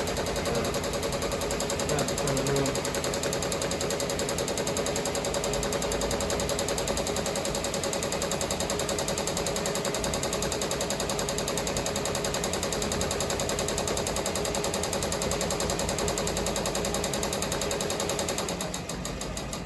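Ricoma MT-1501 15-needle embroidery machine running a stitch-out: a fast, even mechanical chatter of the needle bar, which stops near the end.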